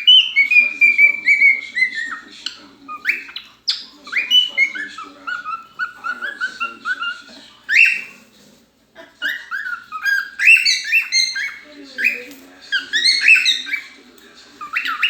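Pet bird calling loudly in long phrases of short whistled notes, many sliding downward, with brief pauses between phrases.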